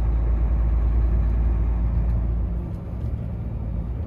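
A Volvo semi-truck's diesel engine and road noise while driving, a steady low rumble.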